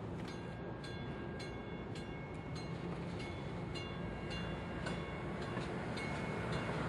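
Metro light-rail train running at the station, with a sharp ringing strike repeating evenly a little under twice a second over a steady rail rumble that grows louder near the end.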